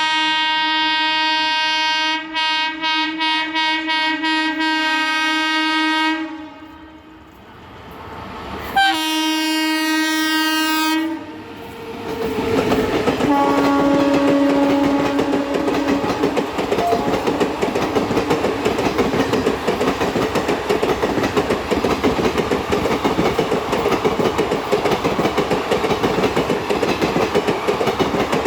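Indian Railways train horn blowing a long blast, then a second shorter blast about nine seconds in, followed by the train passing at speed with a loud, steady clickety-clack of wheels over the rail joints.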